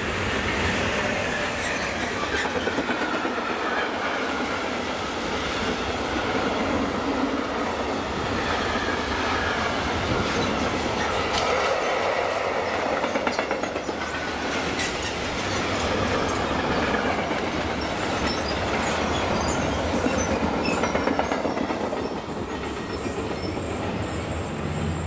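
Freight train of sliding-wall wagons behind a DB class 187 electric locomotive passing close by on a curve: a steady rumble and clatter of wheels on the rails. A whine falls in pitch over the first seconds as the locomotive goes by, and high wheel squeal sounds now and then later on.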